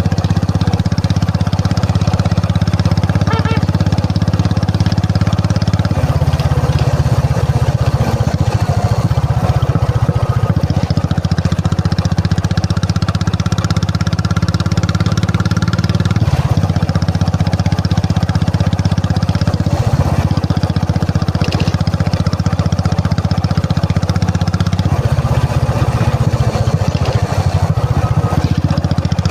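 Royal Enfield Classic 350's single-cylinder engine running with a low, steady note that shifts a few times as the throttle changes.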